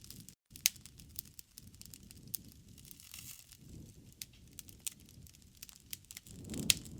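Wood fire crackling in a fireplace: scattered sharp pops and snaps over a soft low rumble of the flames. It cuts out for an instant about half a second in.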